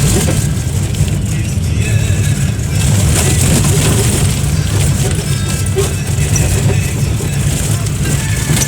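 A motor vehicle running on the move: a steady, loud low rumble with a rushing noise over it.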